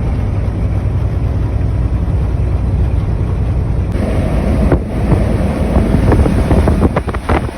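Semi-truck cab noise while driving: a steady low engine and road rumble. About halfway through, a louder rushing noise like wind on the microphone joins in.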